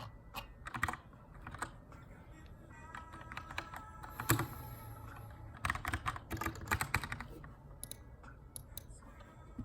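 Typing on a Keychron K2 aluminium-frame mechanical keyboard with brown switches, in bursts of keystrokes separated by short pauses, busiest in the middle and sparser near the end. Faint background music plays underneath.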